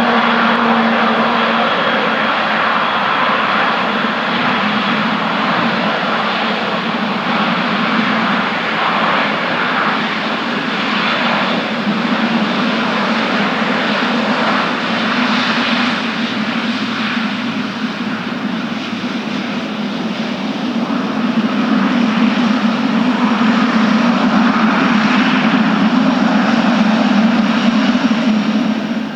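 Boeing 777's GE90 turbofan engines running at high power, a loud steady jet noise with a low hum beneath it, growing louder in the last third before cutting off abruptly.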